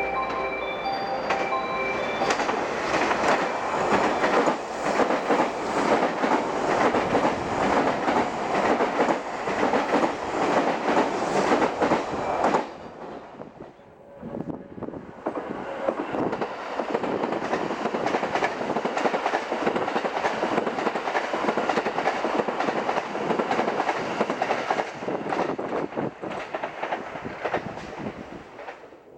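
Electric limited express train passing through a station at speed, wheels clicking rapidly over rail joints, with a station's warning chime sounding in the first couple of seconds. After a cut about halfway, a second train runs past along the line and its noise fades away near the end.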